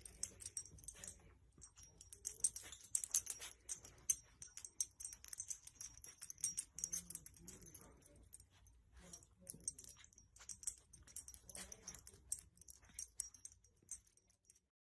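Faint, irregular light clicks and jingles from a dog moving about.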